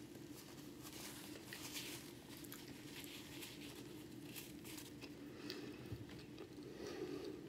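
Close-miked chewing with the mouth closed: sparse soft, wet mouth clicks over a steady low hum, with a paper napkin brushing the lips at the start.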